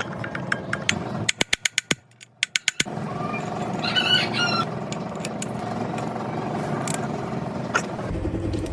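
A quick run of sharp, even clicks, then the Yamaha ET950 generator's small two-stroke engine running steadily from about three seconds in. A short chicken-like call sounds about four seconds in.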